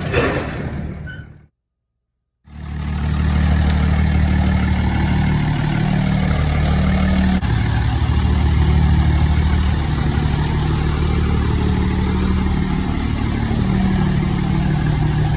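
Diesel truck engine running steadily at low speed. The sound cuts out for about a second near the start, then the engine drone comes back and holds steady.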